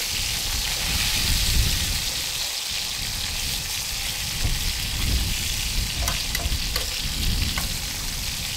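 Lamb chops and diced potatoes sizzling in a skillet on a camp stove: a steady frying hiss over a low rumble. Metal tongs click against the pan a few times near the end as the meat is turned.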